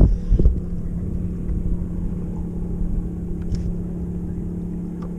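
Boat motor running steadily: an even, low humming drone, with a couple of low thumps of wind on the microphone in the first half-second.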